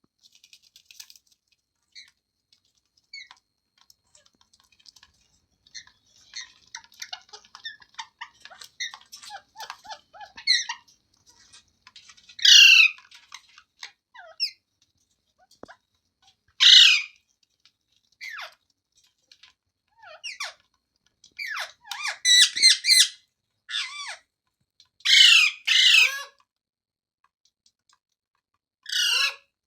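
Rose-ringed (ring-necked) parakeet calling: soft chattering at first, then loud, harsh screeches every few seconds, some in quick pairs and clusters.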